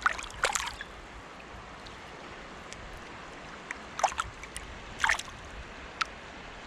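Shallow river water splashing and trickling at the bank, with a sharper splash right at the start and three shorter splashes in the second half.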